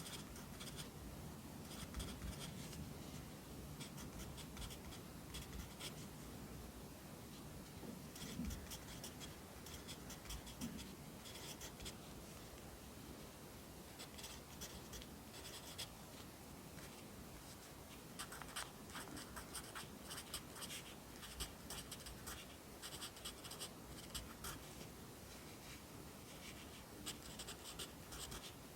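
Pencil writing Korean characters by hand on paper: a continuous run of short, light scratching strokes, which grow busier near the end.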